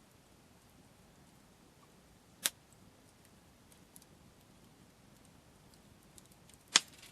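Wood campfire crackling: two sharp pops, one about two and a half seconds in and a louder one near the end, with faint ticks in between.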